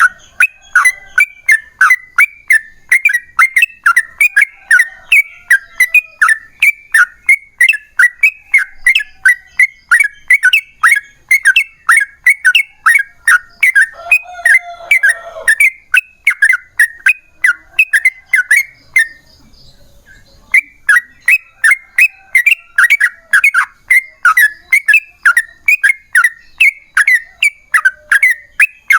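Yellow-vented bulbul (trucukan) singing a long, fast run of loud chirping notes, several a second, with a short pause about two-thirds of the way through before the run starts again.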